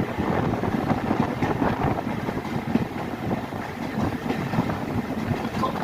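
Rumble and dense clatter of a moving train, with wind buffeting the microphone.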